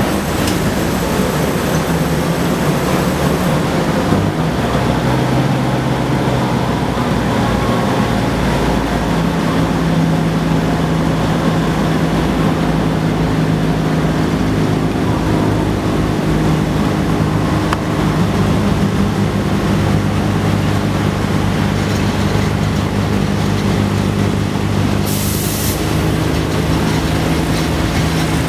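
Diesel express train pulling away from a station, heard from inside a passenger car: a steady engine drone whose note changes about four and nine seconds in as it gathers speed, with a brief hiss near the end.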